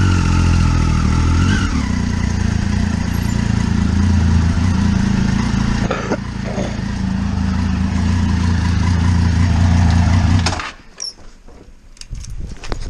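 Motorcycle engine running steadily under way, with wind rush over it. About ten and a half seconds in, the engine sound cuts off abruptly, leaving a few light clicks and clatter.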